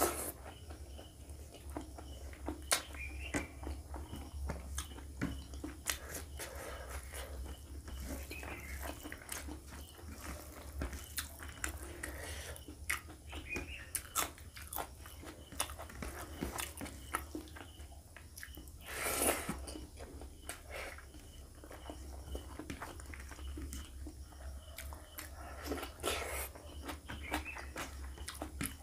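Close-miked wet chewing, lip smacking and mouth clicks of a person eating curry and rice by hand, with a bite into a raw green chilli about halfway through. A louder breathy rush about two-thirds through and again near the end, over a steady low hum.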